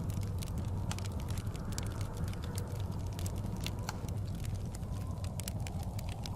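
Fireplace crackling with frequent sharp pops, over the steady low rumble of blizzard wind.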